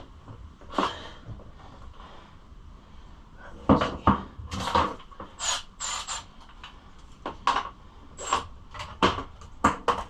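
Irregular clicks, knocks and a few small metallic clinks of hand work on a pit bike's bolts and plastic bodywork, as a bolt is worked into tight plastic.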